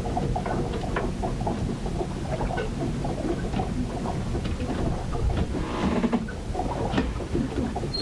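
Storm ambience recorded aboard a ship: a steady low rumble of wind and water with many small ticks and crackles throughout, and a brief surge of rushing water about six seconds in.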